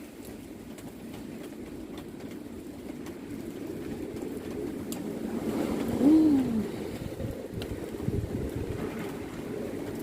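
Strong gusting wind, building steadily and peaking about six seconds in, with a brief tone that rises and falls at the peak. It eases off after the gust.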